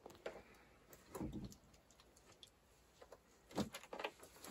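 Faint, scattered clicks and light knocks, with a soft thump about a second in and a quick run of clicks near the end.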